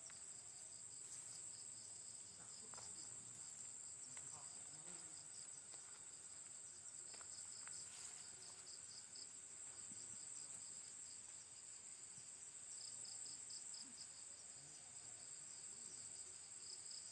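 Insects chirring faintly and steadily: a continuous high-pitched trill with a second, pulsing trill just below it.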